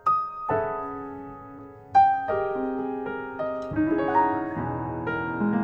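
Jazz piano playing slow ballad chords, each struck and left to ring, the strongest about two seconds in; lower notes fill in near the end.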